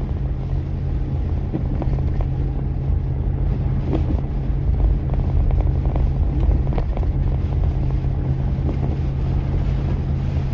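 Steady engine and road drone of a vehicle driving, heard from inside the cab, with a constant low hum.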